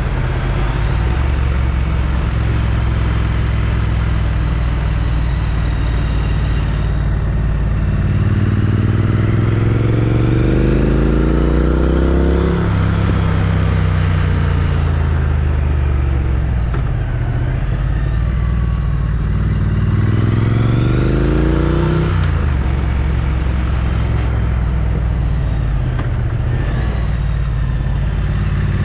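Triumph Street Twin's 900 cc parallel-twin engine running through its stock exhaust, heard from a helmet chin mount over a steady rush of wind. It runs at a steady pace, then twice climbs in pitch as the bike accelerates, each climb ending in a sudden drop in revs.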